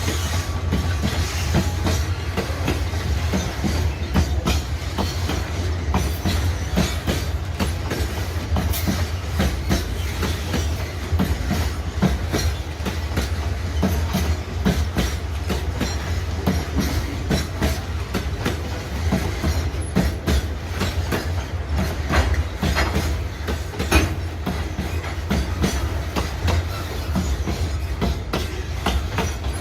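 Freight train of cement wagons rolling past, its wheels clicking and clacking over the rail joints in a dense irregular run over a steady low rumble.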